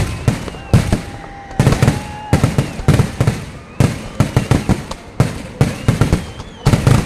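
Fireworks bursting in rapid clusters of loud bangs, one volley after another about every second, with a few faint whistling tones between the bursts.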